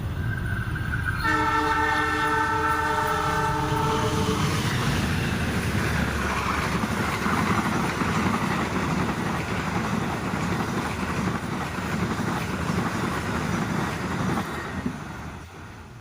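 A locomotive's multi-tone horn sounds for about three seconds, starting a second in. Then a train rolls past, its wheels rumbling and clattering on the rails, until the sound falls away near the end.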